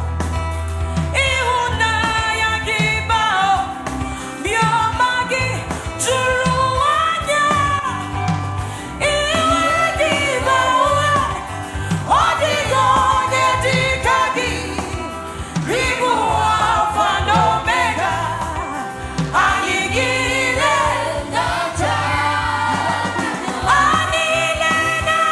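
Gospel worship music: voices singing a flowing melody over a band, with a bass line and a steady drum beat.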